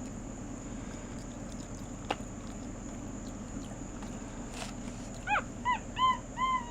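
A pet monkey gives four short, high squeaking calls near the end. The first call slides steeply down in pitch and the other three are brief arched chirps. A couple of faint clicks come earlier over a steady background hum.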